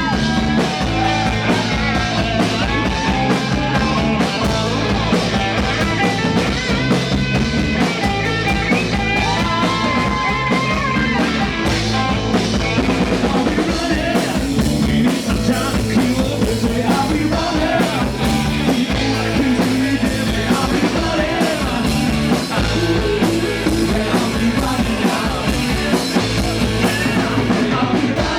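Rock-blues band playing live: a drum kit and bass keep a steady beat under a wavering, pitch-bending lead melody.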